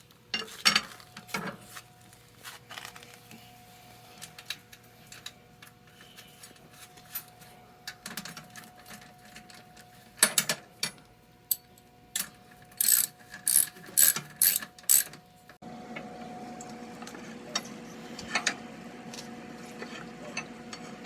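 Hand tools and metal motorcycle parts clicking and clattering as they are fitted together, with a quick run of about seven sharp clicks, some three a second, a little after halfway. A faint steady hum runs underneath.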